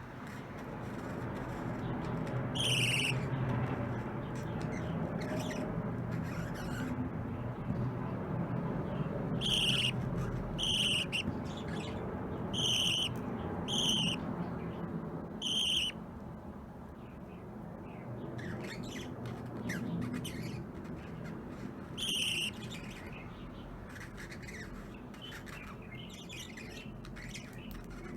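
Pet budgerigars calling: about seven short, sharp chirps, five of them close together in the middle, over a steady low background noise.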